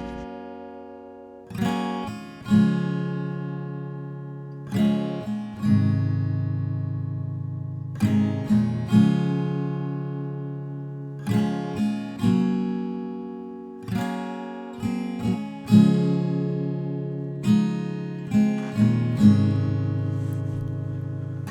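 Background music: an acoustic guitar strumming chords, each chord struck and left to ring out before the next.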